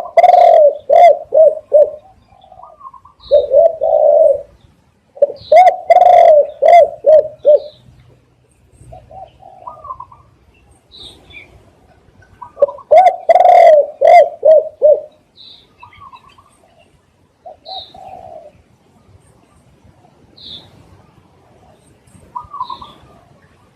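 Spotted dove cooing: repeated phrases of several quick, rolling coos. Four loud phrases in the first fifteen seconds, then fainter, scattered calls. Short high chirps from small birds are mixed in.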